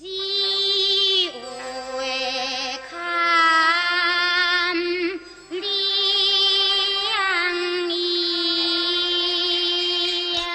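Teochew opera singing: a single high voice holds long, wavering notes over faint instrumental accompaniment, starting suddenly after a brief silence.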